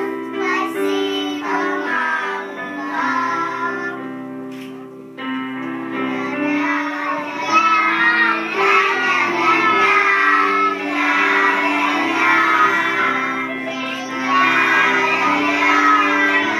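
A group of young children singing a song together over an instrumental accompaniment of steady held notes; the sound dips briefly about five seconds in, then the singing comes back fuller.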